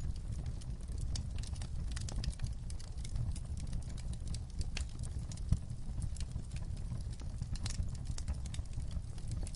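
Wood fire crackling in a fireplace: irregular sharp pops and snaps over a steady low rumble, with one louder pop about five and a half seconds in.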